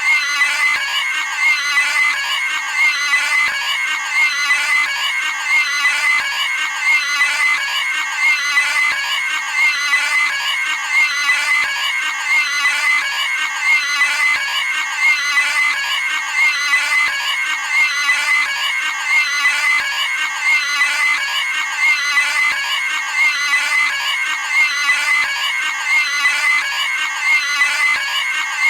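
Cartoon pig's high-pitched squealing scream, the same short clip repeated over and over without a break.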